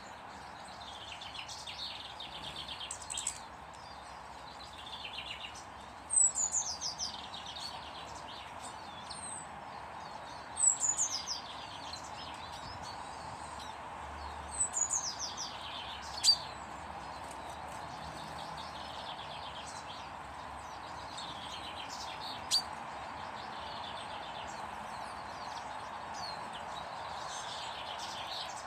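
A small songbird singing a short phrase of rapid notes that falls in pitch, repeated every few seconds, over a steady background hiss.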